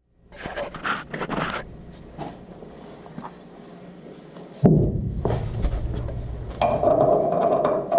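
Metal clanks and knocks from tools on the C10's leaf-spring hanger and frame, a quick cluster in the first second and a half. A little past halfway a sudden heavy thump starts a low rumble, joined later by a steady hum.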